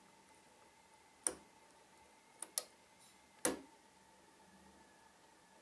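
Sharp metallic clicks of a pick and tension wrench working the pins of a Trioving 5632 padlock during single pin picking: one click about a second in, a close pair near the middle, and a louder one about three and a half seconds in.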